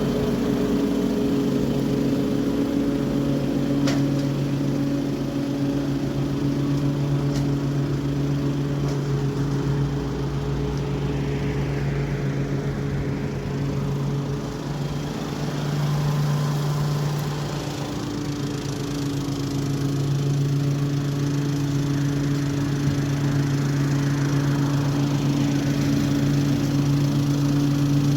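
Toro HDX 30-inch self-propelled mulching mower running steadily while cutting grass. Its engine note dips briefly about halfway through.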